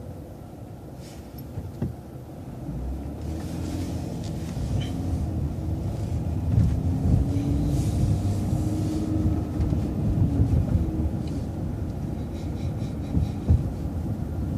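City transit bus pulling away from a stop sign and gathering speed: a low engine and road rumble that grows louder, with a drivetrain whine that rises in pitch and then eases off.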